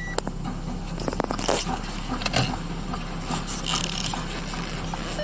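Scattered light clicks and scrapes over a steady low hum.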